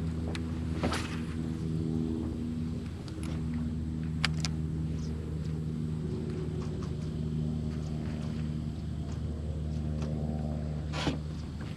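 A motor running at a steady pitch, with a few sharp clicks.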